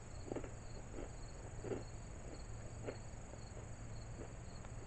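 Mouth-closed chewing of a hard, crunchy corn-puff snack, a handful of short crunches. Behind it crickets chirp in an even pulse, about three chirps a second, over a steady high insect drone.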